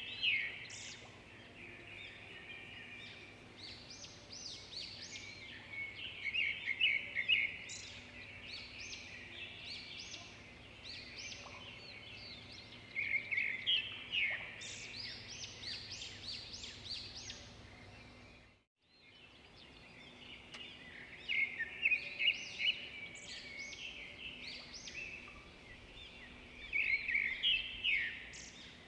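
Swiftlets twittering: bursts of rapid, high chirping trills that come back every few seconds, over a faint steady low hum. The sound cuts out briefly about two-thirds of the way through.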